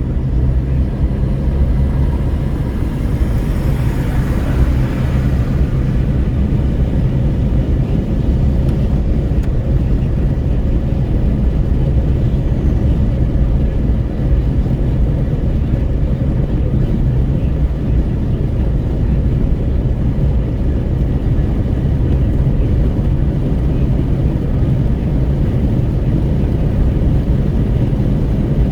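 Steady low road rumble and wind noise inside a Renault Kwid 1.0 cruising on a highway, with wind rushing at the window. A brief swell of hiss about four seconds in.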